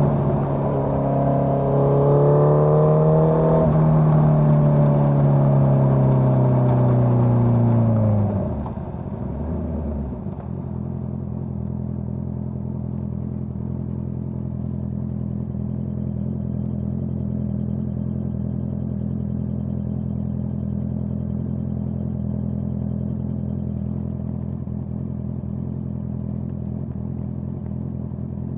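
Honda CBR650R inline-four through a Dominator GP full-system exhaust, pulling with rising pitch and changing gear about four seconds in. About eight seconds in the revs fall away and the engine settles into a steady idle.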